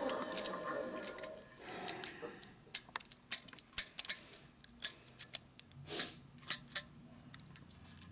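A machine tool's cutting noise dies away as the spindle winds down, then comes a scattered series of light metallic clicks and taps as the machined part is handled.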